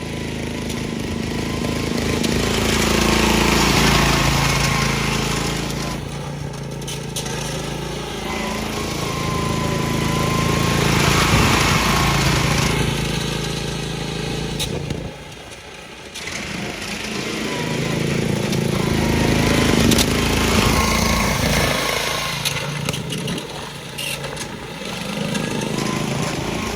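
Riding-mower engine exhausting through a homemade dual exhaust, running as the mower is ridden back and forth. It grows louder and fades about three times as it comes close and moves away, dipping briefly about halfway through.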